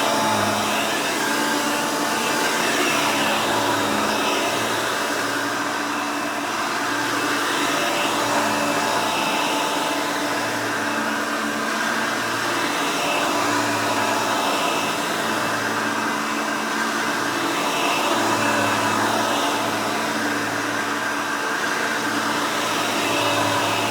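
Hoover Elite upright vacuum cleaner running steadily with its brush roll spinning, loud throughout, its level swelling and dipping slightly every couple of seconds.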